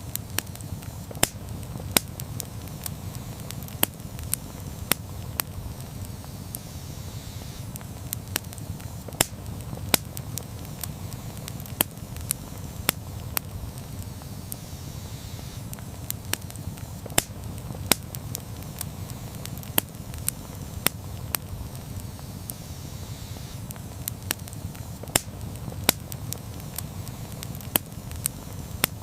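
Campfire crackling: irregular sharp pops and snaps, one to three a second, over a steady low rumble of the flames.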